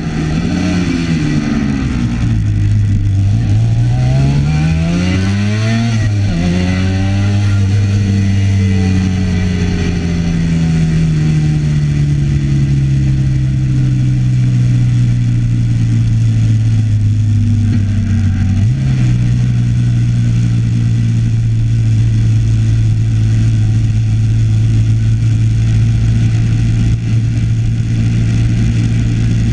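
Classic racing motorcycle engine heard from onboard at speed. Its note dips, climbs under acceleration and drops sharply at a gear change about six seconds in. It then sags slowly, jumps up in pitch about two-thirds through, and holds steady.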